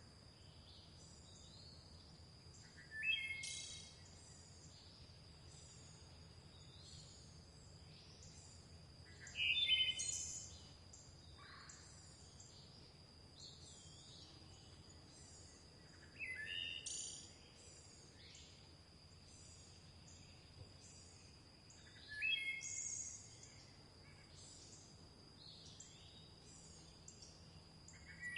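Songbirds singing: a louder bird phrase comes four times, about every six or seven seconds, over many faint, high, rapid chirps from other birds. A steady thin high tone runs underneath.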